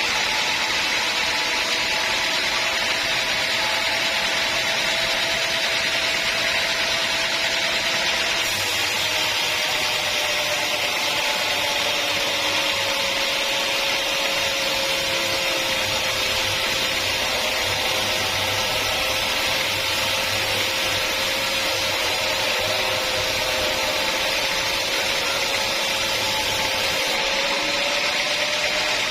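Sawmill saw running through a teak log, a steady machine whine with a strong hiss of cutting. Its pitch sags slightly through the middle and rises again near the end.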